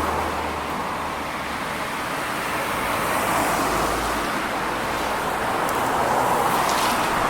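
Steady road noise of a car driving on a rain-wet road.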